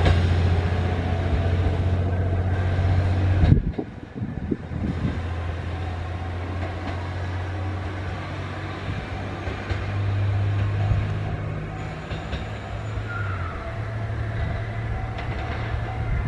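A train at a station platform giving off a steady low hum. The sound cuts off sharply about three and a half seconds in, and a quieter train hum carries on, rising and falling a little.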